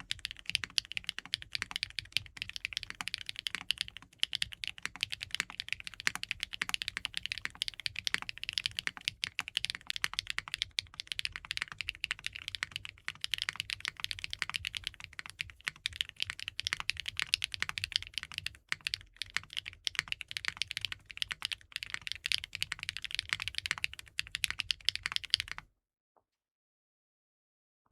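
Fast, continuous typing on a custom 65% mechanical keyboard (KNC Keys Geim 65) fitted with linear switches and GMK keycaps: a dense stream of key clacks that cuts off suddenly near the end.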